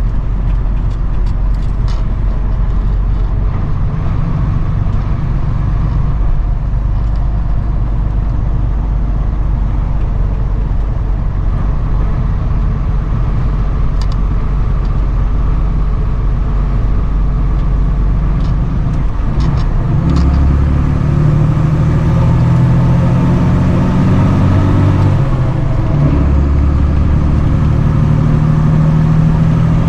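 Flatbed straight truck's engine running steadily on the road. About two-thirds of the way through, its note steps up and grows louder, as it does when the truck pulls harder or changes gear.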